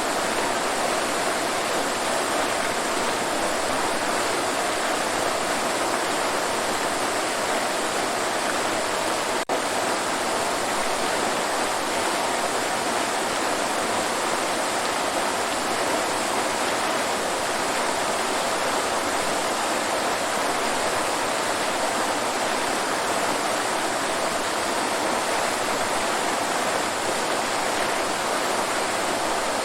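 Waterfall rushing in a steady, unbroken wash of water noise, with a split-second dropout about nine seconds in.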